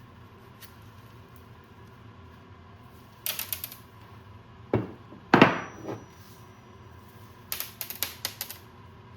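Metal tools and parts handled on a workbench: a quick clatter of small clicks, then two heavier clanks about halfway, the second the loudest and ringing briefly, then another clatter of clicks near the end.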